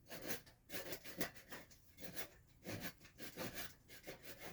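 Small hand saw cutting alderwood in short back-and-forth strokes, about three to four a second, sawing into the corner of a carved mask's mouth to set the stop cut.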